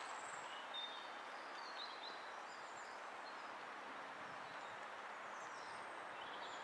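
Faint outdoor ambience: a steady hiss with small birds chirping on and off.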